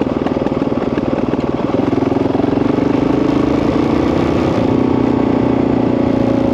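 Honda CRF dirt bike's single-cylinder four-stroke engine running with a fast, even firing beat. Its pitch rises a little about two seconds in, then holds steady.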